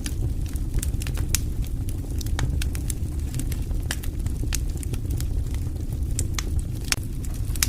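Fireplace fire crackling: frequent, irregular sharp pops and snaps over a steady low noise of the burning flames.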